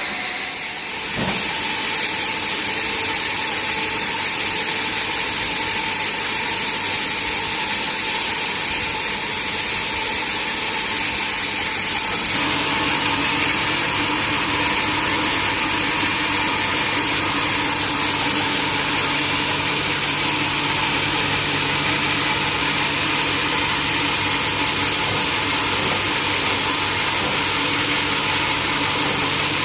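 Sawmill machinery running steadily with a loud hiss. A knock sounds about a second in. About twelve seconds in, a steady low hum sets in and it gets slightly louder.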